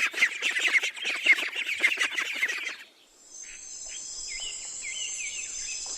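Ducklings peeping in a rapid, dense chorus of high chirps, cut off about three seconds in. After the cut comes a steady high insect buzz with short repeated chirps over it.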